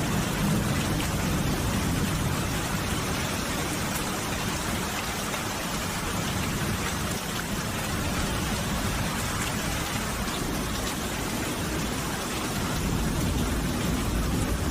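Steady rain falling, an even hiss of drops with no pauses, and a low rumble swelling at the start and again near the end.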